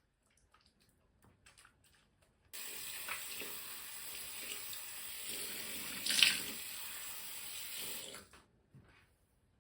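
Water tap turned on and running into a sink for about five and a half seconds, then turned off, with a brief louder splash partway through. A few faint small clicks come before it.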